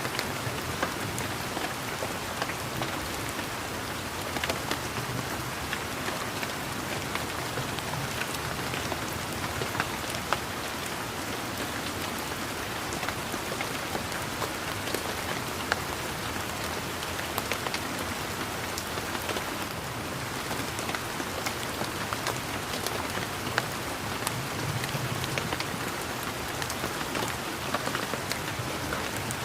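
Steady rain falling on leaves and surfaces in a garden, an even hiss with many distinct drops ticking close by.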